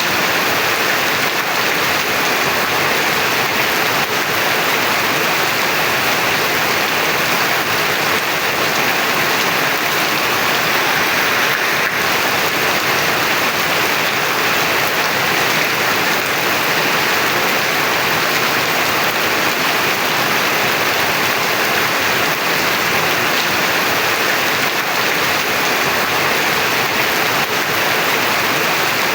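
Heavy rain falling steadily, a dense even wash of water with no let-up.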